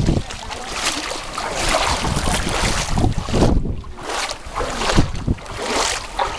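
Typhoon wind gusting on the microphone over seawater surging and splashing in a storm surge near high tide, rising and falling in swells, with a low thump about five seconds in.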